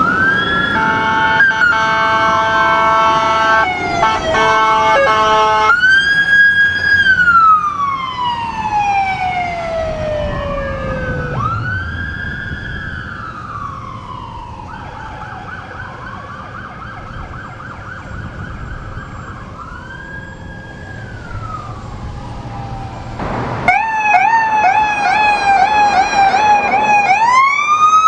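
Emergency vehicle sirens passing: a slow rising and falling wail, with a long horn blast over it for several seconds near the start. About two-thirds of the way through the sound changes abruptly to a fast warbling yelp, and it ends in a rising wail.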